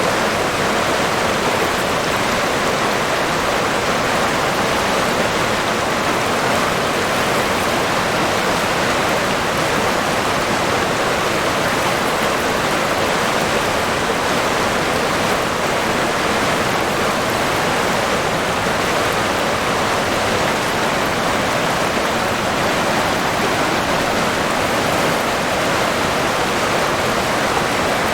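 River water flowing steadily, a continuous rushing with no breaks or single events.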